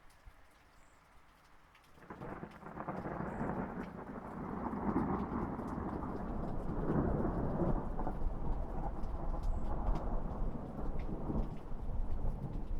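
Thunder rumbling over steady light rain. The rumble starts about two seconds in, swells and rolls on for about ten seconds, then eases off near the end, with scattered raindrop ticks throughout.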